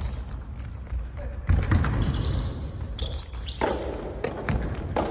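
Soft tennis rally: a soft rubber ball struck by rackets and bouncing on the court, a few sharp hits, with high squeaks and voices in the background.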